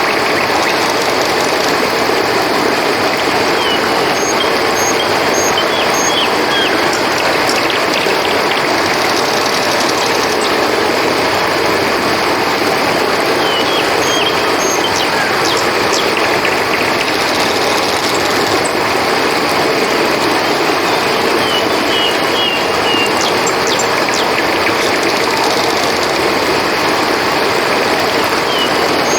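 River water flowing with a steady rushing sound, under a constant high chorus of crickets, with short chirping calls every few seconds.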